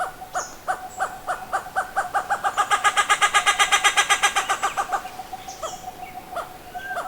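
Sri Lanka grey hornbill calling: a series of short repeated notes that quickens into a fast chattering run of about seven notes a second, then slows and fades.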